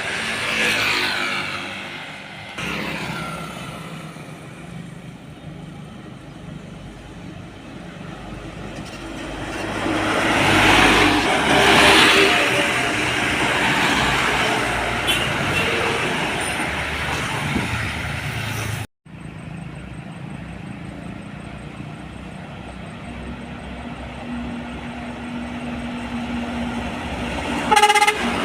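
Large trucks and buses passing on a road, their engine and tyre noise swelling up and fading away, with a short loud horn blast near the end.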